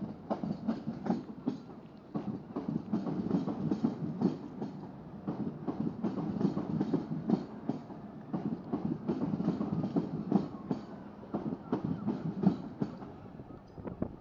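Passenger multiple-unit train running over the track below, its wheels clicking in an even rhythm over the rail joints, about two to three clicks a second, over a low rumble.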